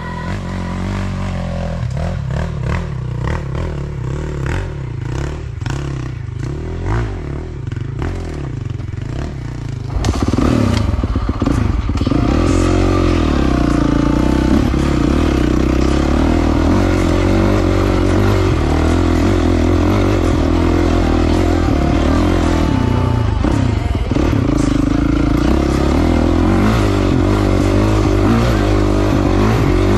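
Motorcycle engine running and revving, its pitch rising and falling, with clattering along the ride. It gets louder about ten seconds in.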